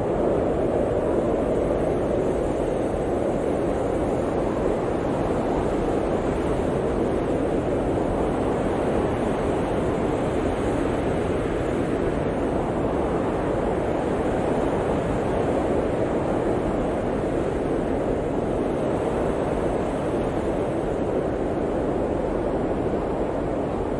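Blizzard wind blowing steadily: a dense, even rushing that swells and eases slowly.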